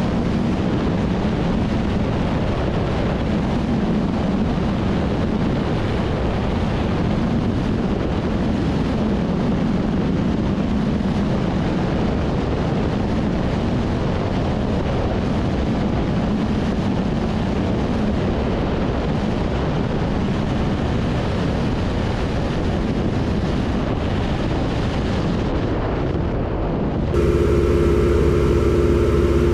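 Aircraft engine running steadily under heavy rushing wind noise. Near the end it cuts abruptly to a louder, steadier engine hum.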